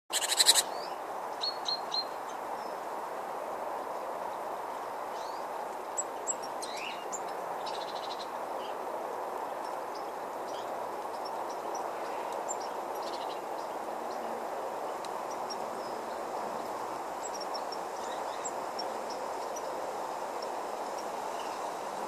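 Short, high chirps and calls of small garden birds, scattered and brief, over a steady background hiss. A louder, harsh burst sounds in the first half-second.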